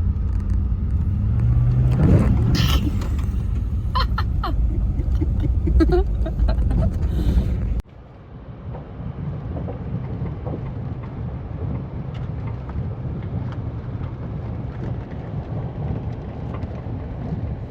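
Truck driving on a rough back road: a steady low engine and road rumble with scattered knocks and rattles. About eight seconds in it cuts suddenly to a quieter, even hum.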